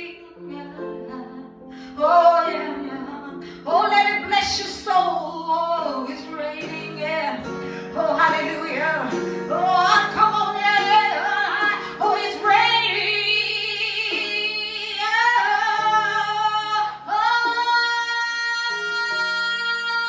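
A woman singing a gospel worship song without clear words, her voice gliding through the melody over steady instrumental chords, then holding one long note near the end.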